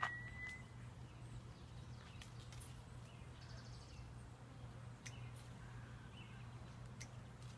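Steady low hum of a honeybee swarm, with a short high chirp right at the start and a few faint chirps and clicks.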